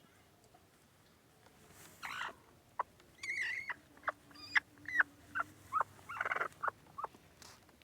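Mother hen giving angry, agitated calls: a run of short, sharp notes that slide downward in pitch, with a couple of harsher squawks among them, starting about two seconds in.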